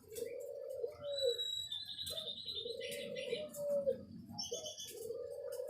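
A dove cooing in low phrases about a second long, repeated three times at an even pace, while a white-rumped shama sings higher chirps and short trills between the coos.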